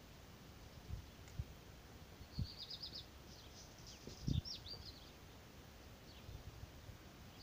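Faint birdsong: a quick run of high chirps about two seconds in, then a few more calls. Several short low thumps sound as well, the loudest about four seconds in.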